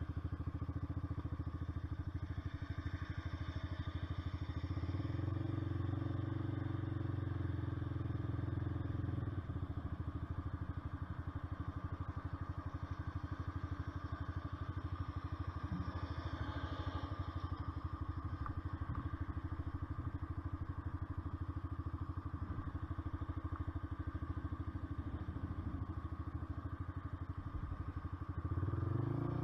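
Honda CBR125R's single-cylinder 125 cc four-stroke engine and exhaust running at a steady pitch, growing louder for a few seconds near the start and again at the very end.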